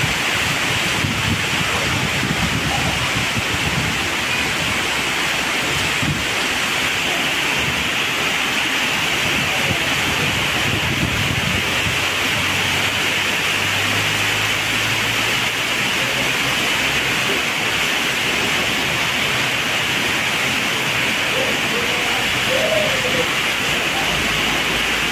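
Heavy rain falling steadily and loudly, with no let-up. A car passes on the wet road around the middle, a low engine hum under the rain.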